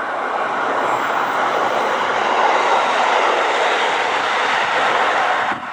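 JR Hokkaido 733 series electric train approaching on elevated track, its wheel-and-rail running noise swelling over the first couple of seconds and then holding steady, with a sudden dip just before the end.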